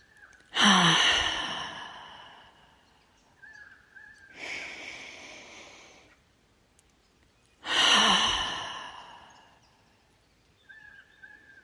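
A woman's deep breathing, twice: a long inhale through the nose, then a loud sighing exhale through the mouth that fades away. Faint bird calls come in the pauses.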